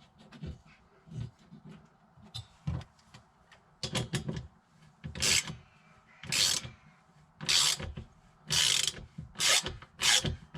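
A hose clip being tightened with a hand tool: a run of short, rasping, clicking strokes, about one a second, louder in the second half, after lighter scattered clicks.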